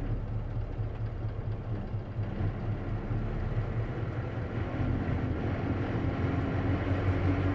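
Inside an Isuzu KC-LV380N city bus on the move: the engine and drivetrain run with a steady low rumble. About two-thirds of the way in, a whine sets in and slowly rises in pitch as the bus gets a little louder.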